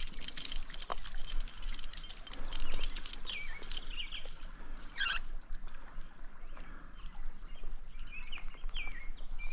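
Small birds chirping, a few short calls about three and a half seconds in and again near the end, with a quick run of clicks and knocks in the first three seconds.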